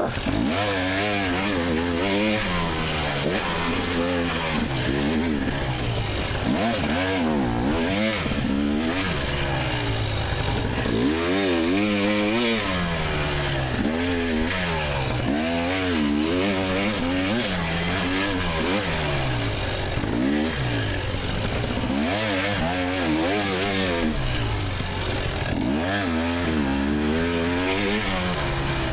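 A 2024 GasGas EX300's 300 cc two-stroke engine revving up and falling back again and again, its pitch rising and dropping every second or two as the throttle is opened and closed.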